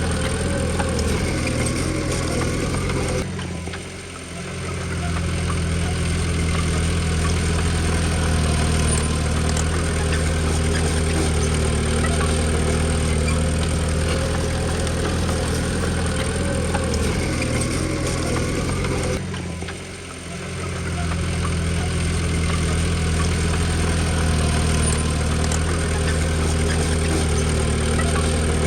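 Diesel engine of a Komatsu D20P bulldozer running steadily. Twice, about three seconds in and again past the middle, the sound drops away abruptly and comes back within a second or two.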